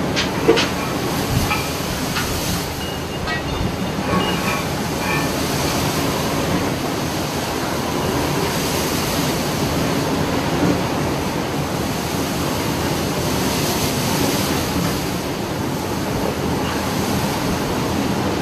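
Steady rumbling and rattling noise of a ship working through heavy seas, with wind and water. A few sharp knocks and short high squeaks come in the first few seconds.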